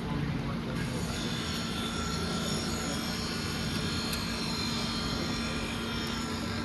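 Motorcycle engine running steadily, with a high whine over it from about a second in until near the end.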